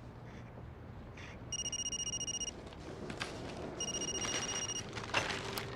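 Telephone ringing twice with an electronic ring, each ring a steady tone lasting about a second.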